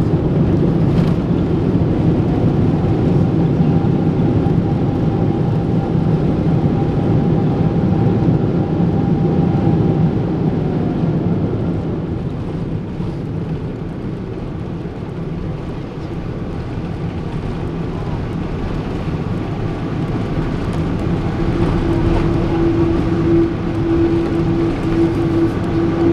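Cabin noise of a Boeing 777-300 on the runway just after landing: a steady deep rumble of engines and rolling wheels. It eases off about halfway through and builds again near the end, with a whine that fades early on and a new steady hum in the last few seconds.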